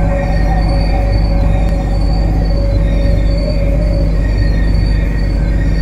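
MTR Kwun Tong Line C-Train electric train giving off a steady hum and whine: a low drone under several held high tones, one near the top coming and going.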